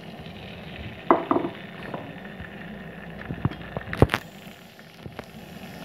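Pieces of liver starting to fry in hot oil in a non-stick pan, giving a low, steady sizzle. A few sharp clicks and pops come through it, about a second in and again near four seconds in.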